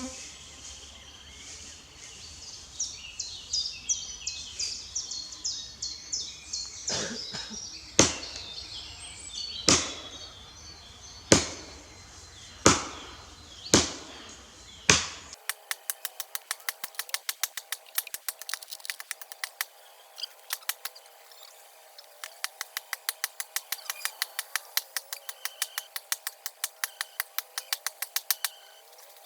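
Birds chirping, then six sharp chopping blows about a second and a half apart from a hand tool striking wood. About halfway the sound changes suddenly to quick, even clicking, about four a second.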